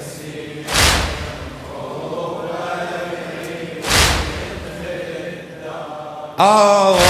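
Latmiyya (Shia mourning chant): a chorus of men holding a low chanted drone, cut by two heavy beats about three seconds apart. Near the end a solo male voice comes in loudly, singing the next line.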